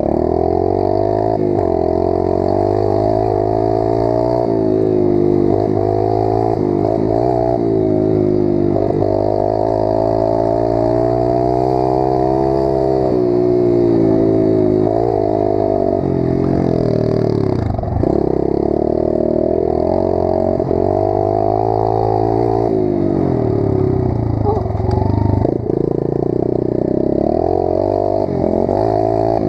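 Pit bike engine being ridden hard, its pitch rising and falling continuously with the throttle. It briefly drops off sharply a little past halfway, then revs back up.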